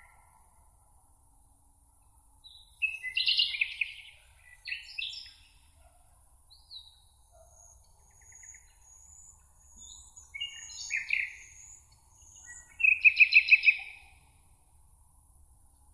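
Songbirds singing: four short phrases of quick, trilled notes, the loudest near the end, with a fainter, thin, high-pitched song in the background midway.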